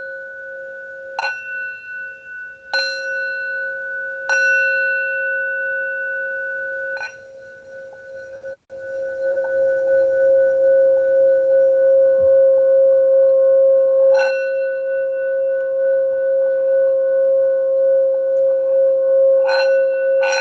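Singing bowl struck four times in the first seven seconds, each strike ringing on in one steady tone. From about nine seconds in it is rubbed round the rim, the tone swelling louder and held with a slow wobble, with a strike near fourteen seconds and two more near the end.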